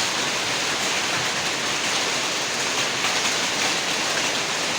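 Heavy rain mixed with hail falling in strong wind, a dense, steady hiss.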